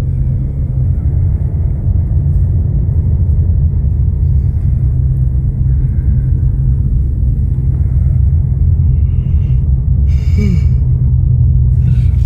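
Loud steady low rumble, with a brief faint voice about ten seconds in.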